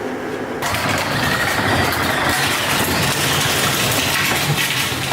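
A road vehicle's engine running, with road and wind noise, coming in suddenly about half a second in and holding steady.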